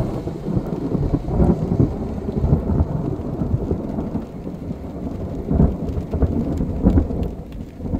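Thunder rumbling on in a long roll, swelling louder several times, with rain falling in fine ticks.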